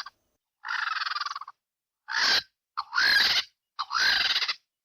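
Vulture calls: four rasping calls about a second apart, the first the longest.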